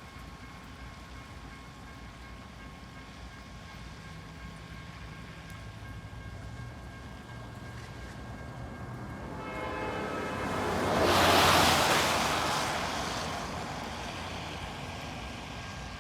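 Amtrak P42DC diesel locomotive and passenger train approaching and passing. A rumble builds and the horn sounds briefly as the train nears. The pass is loudest about eleven seconds in, then the rush of the cars fades slowly.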